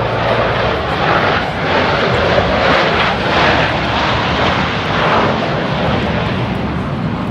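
Loud jet roar from a Blue Angels F/A-18 flying past, swelling in the middle and easing off near the end.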